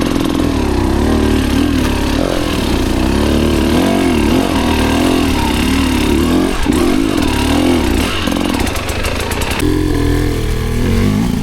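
Enduro dirt bike engine revving up and down as it is ridden along a trail, its pitch rising and falling with the throttle. It eases off briefly near the end.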